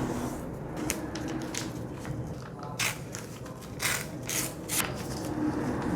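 A sheet of paper being handled and folded by hand into a paper boat, rustling and crinkling in short irregular bursts, loudest about three seconds in and again between four and five seconds.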